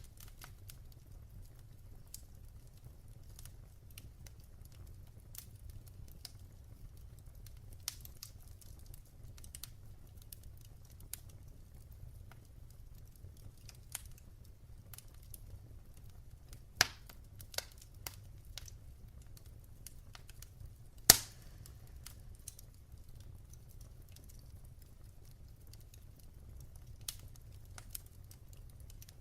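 Wood fire crackling in a fireplace: irregular sharp snaps and pops over a steady low rumble, with two louder pops about four seconds apart past the middle.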